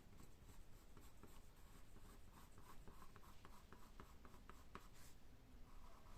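Faint scratching strokes on a hard surface: a quick run of short scrapes in the middle, then a brief steady rub near the end.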